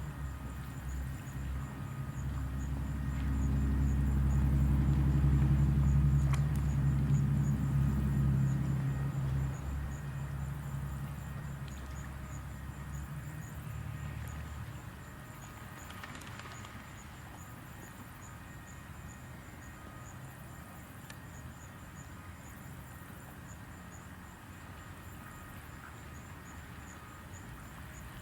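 A motor's low hum swells over a few seconds, holds, and then fades away, like an engine passing by. A quieter steady background remains afterwards.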